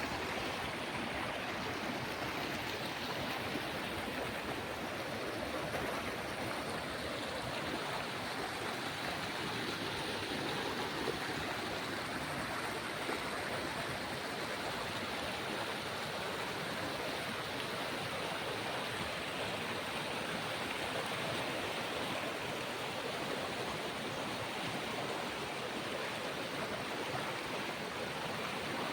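A stream's water running steadily: an even rush with no pauses or changes.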